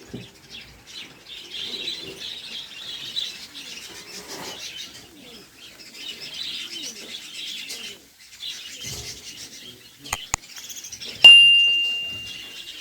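Many small cage birds chirping together. Near the end a sudden ringing tone starts loudly and fades over about a second and a half, just after two sharp clicks.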